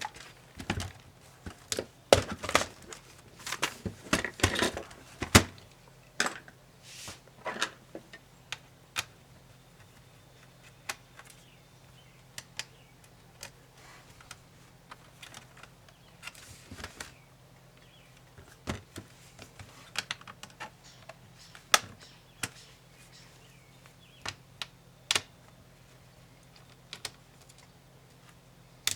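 Irregular clicks, taps and light knocks of small tools and laptop parts being handled during disassembly, busiest in the first few seconds and sparser after, over a faint steady hum.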